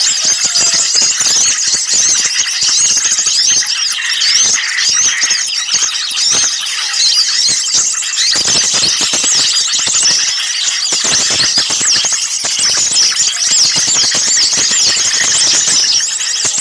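Dense chorus of many small birds calling in agitation: a nonstop stream of overlapping high chirps and quick rising and falling whistles. This is the kind of noisy small-bird commotion used as a lure recording to draw other birds in.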